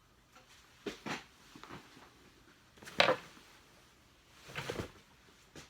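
Objects being handled and set down: a few short knocks and scrapes, the loudest about three seconds in and a short cluster of them near the end.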